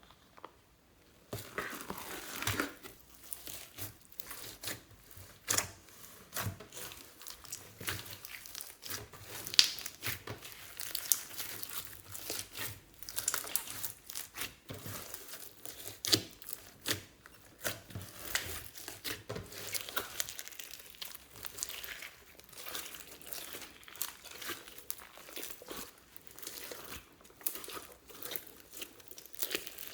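Hands squishing, stretching and kneading slime, with irregular crackling, popping and sticky tearing sounds.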